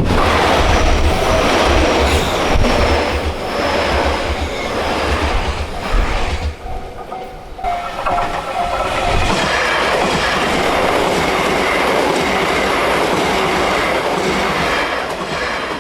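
A train passing over a railway level crossing, its wheels clattering over the rail joints. A crossing warning bell dings in a steady repeating pattern.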